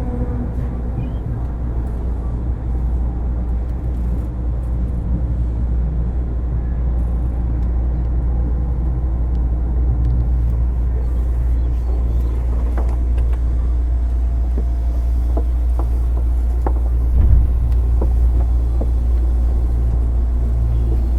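Interior running sound of a JR East 205 series motor car: a steady low rumble that slowly grows louder. A falling motor whine dies away in the first half-second, and a run of sharp clicks comes in the second half.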